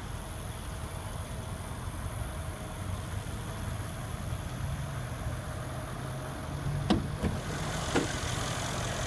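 Mercedes-Benz CLS 63 AMG S's 5.5-litre bi-turbo V8 idling steadily, with a few short clicks or knocks about seven to eight seconds in.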